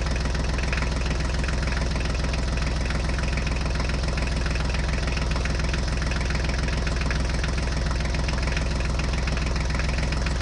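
A motor running steadily: a low, even hum with a hiss over it that does not change.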